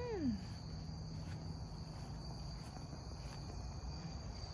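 Crickets chirring steadily, an even high-pitched insect drone, with a short falling 'mm' from a person's voice right at the start.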